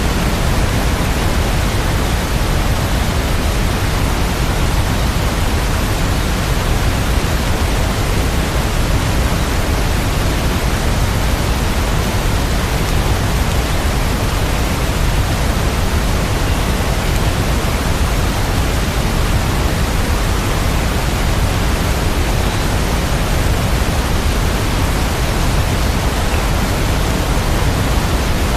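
Steady, unbroken rain, an even hiss with no single drops or other sounds standing out.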